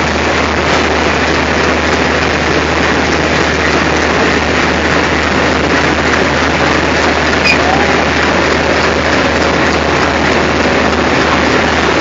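Diesel locomotive engine running steadily close by: an unchanging low drone under a loud, even rushing noise.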